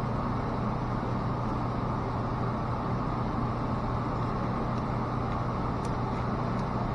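Steady low hum of running machinery, unchanging throughout, with a few faint light clicks about two-thirds of the way through.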